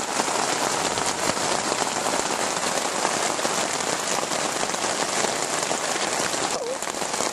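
Heavy rain pouring steadily onto a tent, heard from inside: a dense, even patter of countless drops.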